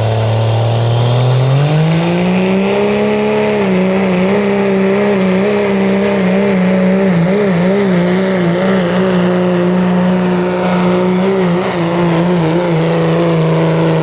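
Diesel 4WD pickup engine revving up and held at high rpm under heavy load as it pulls the weight-transfer sled. The pitch climbs in the first few seconds, then wavers and eases down a little near the end.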